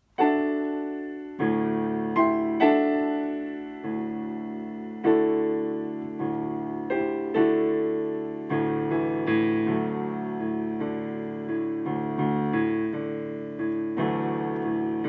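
Piano playing slow chords, each struck and left to fade, starting suddenly just after the opening.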